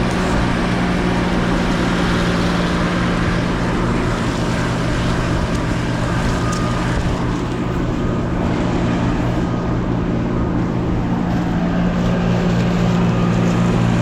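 Engine of heavy farm machinery running steadily, a constant low hum with mechanical noise over it.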